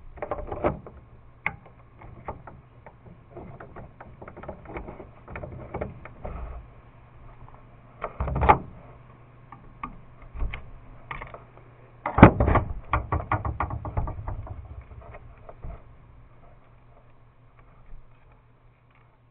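Small parts of a brushed electric motor being handled and worked on: irregular clicks, taps and rattles, loudest in a cluster about half a second in, a knock at around eight and a half seconds and a busy run of clicks from about twelve to fourteen seconds, over a faint steady hum.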